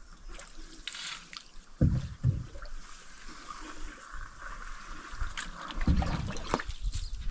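Canoe being paddled on a creek: soft water sounds from the paddle, with pairs of low knocks about two seconds in and again near six seconds.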